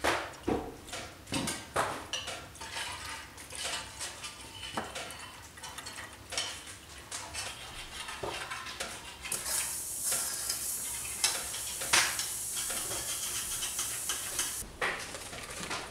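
Clinks and knocks of a metal cooking pot as water is poured into it. Then, about nine seconds in, a steady high sizzle starts: a wet pot on a hot stovetop heating water. It cuts off suddenly near the end.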